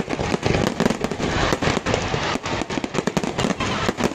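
Fireworks going off in a dense, irregular series of bangs and crackles, many a second, with no break.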